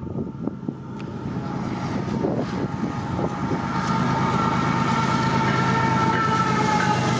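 Diesel locomotive running alone on its approach, its engine rumble growing steadily louder. A steady high-pitched whine comes in about four seconds in.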